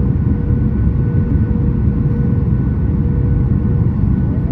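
Steady low cabin rumble of a Boeing 737 MAX 8 with its CFM LEAP-1B engines, heard from inside the passenger cabin, with faint steady tones over it.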